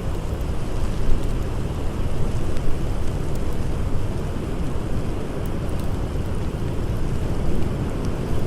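Blizzard wind blowing as a steady low rush, with a few faint crackles from a wood fire.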